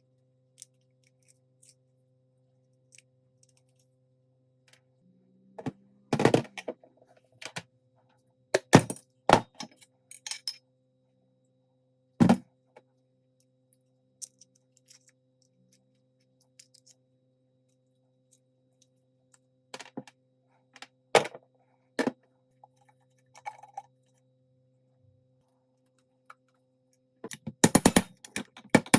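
Sharp knocks and clinks of Bostitch N80S nail gun parts being handled and worked on, several seconds apart, with a quick run of clicks near the end. A low steady hum lies under them and stops near the end.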